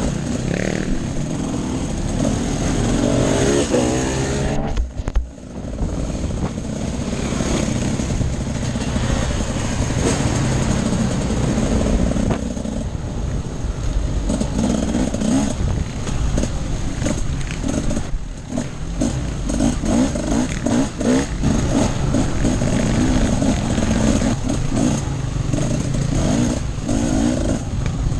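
Enduro dirt-bike engine revving up and down under changing throttle while riding off-road. The throttle is shut briefly about five seconds in.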